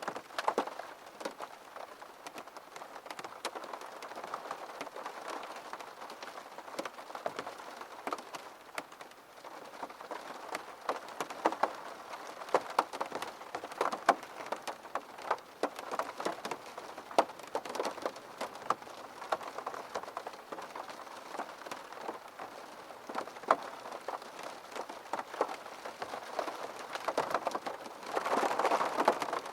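Rain hitting a window pane: a steady hiss dense with sharp, irregular ticks of single drops striking the glass, growing heavier for a moment near the end.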